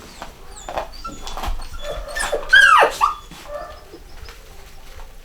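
Cockapoo puppies whimpering and squeaking, with one loud cry about two and a half seconds in that falls in pitch.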